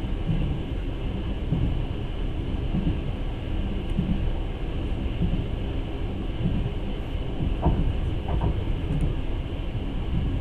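Passenger train running along the line, heard from inside the carriage: a steady rumble of wheels on the rails.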